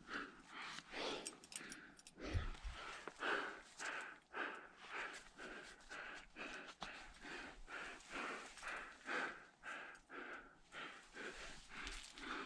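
A person breathing hard in quick, even, rhythmic puffs, close to the microphone, like a climber panting from exertion. A couple of low bumps come about two seconds in.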